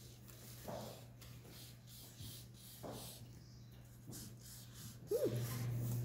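Faint eating sounds, soft chewing and small clicks about once a second, from people eating burgers, over a steady low hum. About five seconds in a short rising-and-falling squeak is heard, and the hum then becomes much louder.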